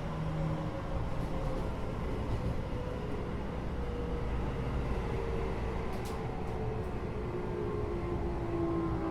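Interior running noise of a Keio 8000 series electric train, recorded above the car's GTO-VVVF main controller: a steady rumble with faint tones that shift slowly in pitch, and a few short clicks about six seconds in.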